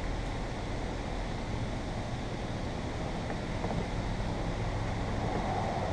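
Steady low background noise, wind-like rumble with no distinct events.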